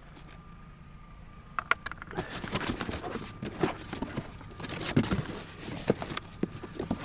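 A cardboard box being opened and its contents handled: irregular rustling, crackling and knocking that start about two seconds in and carry on, over a low steady hum.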